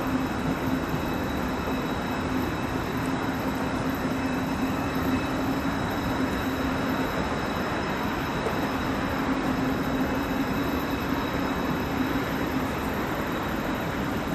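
Deutsche Bahn ICE train running past on the line, a steady rumble of wheels on rails with a steady low hum and a faint high whine over it.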